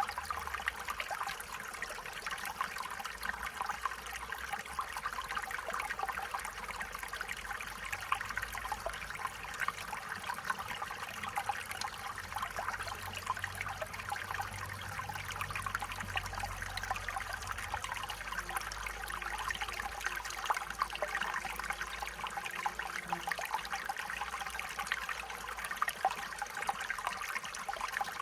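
A small stream trickling and babbling over stones, a steady bubbling, splashing flow with no change.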